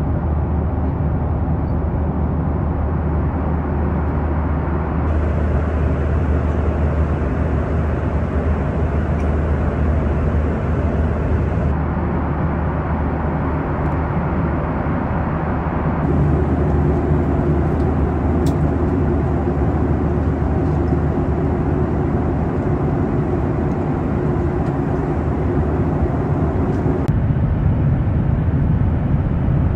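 Steady Boeing 737-900ER cabin noise: engine hum and airflow rumble heard from inside the cabin, changing abruptly a few times as separate stretches are cut together.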